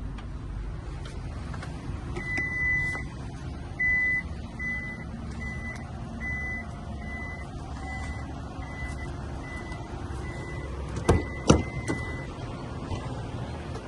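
A vehicle's electronic warning beeper sounds one long beep, then a steady run of short beeps, a little under two a second, before stopping. A steady low rumble sits underneath, and two sharp knocks come near the end.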